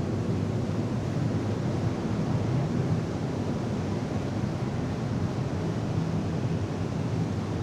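Steady wind noise on the microphone over the low rumble and wash of a passenger boat under way at sea.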